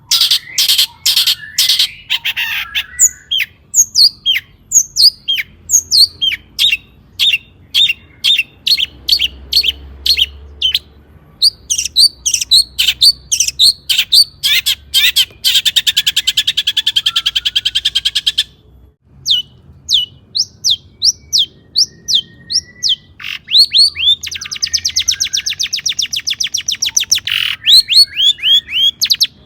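Long-tailed shrike (cendet) singing: a fast stream of short, sharp chirps broken by two long rapid trills, one about halfway through and one near the end.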